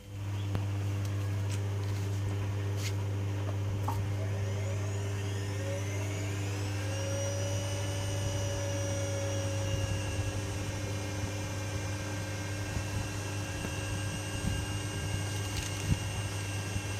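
Privileg Sensation 9245 washing machine running: a steady low hum starts abruptly. A motor whine rises from about four seconds in and levels off around seven seconds, then runs on evenly.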